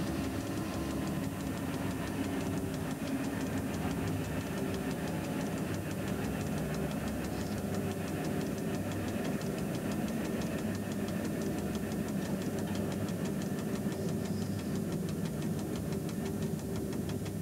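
Steady low rumble of a train running along the track, heard from inside the driver's cab.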